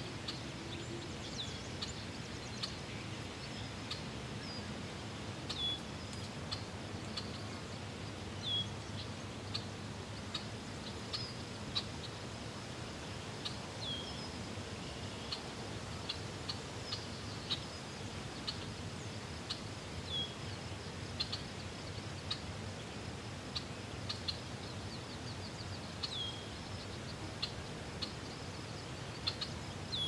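Small birds chirping: short high calls that drop in pitch, one every second or two, with a few ticks, over a steady low background noise.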